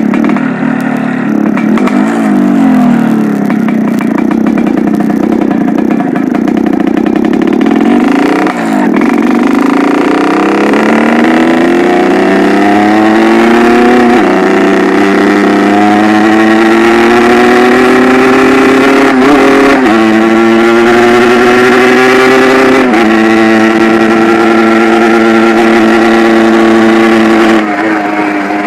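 Yamaha RX-King's two-stroke single-cylinder engine running under load, its carburettor set for a growling ('ngorok') exhaust note. It briefly dips and picks up twice, then climbs in pitch with several sudden drops before easing off near the end.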